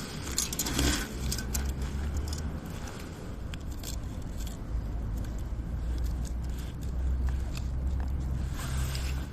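Low wind rumble on the microphone with a scattering of sharp clicks and scrapes; the loudest scraping comes about a second in and again near the end.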